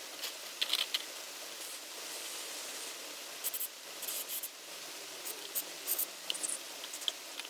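Light scraping and short clicks of small carburetor parts being handled and cleaned, over a steady hiss.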